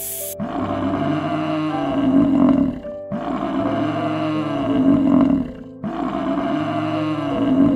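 A big cat roaring three times, each roar about two and a half seconds long, over background music.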